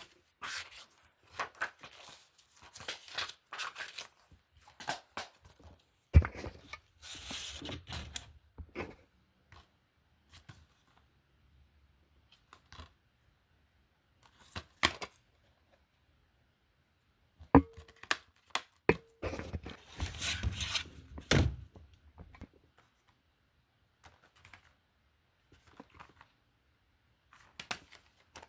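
Film and TV disc cases being handled: irregular clacks, knocks and scraping, rustling handling noise, with a sharp knock about six seconds in.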